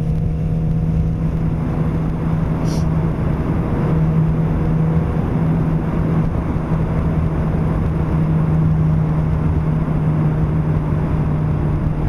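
Suzuki GSX-R600's inline-four engine running at a steady speed under way, with wind rush over the helmet.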